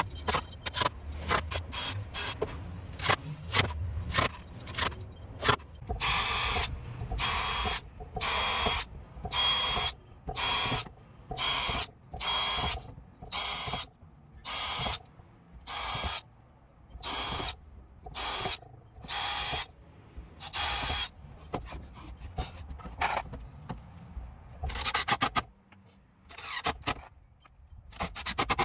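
Power screwdriver driving decking screws down into the joists, the footage sped up. A rapid run of short clicks comes first, then a regular string of short whirring bursts, about one a second, one for each screw, and a few more near the end.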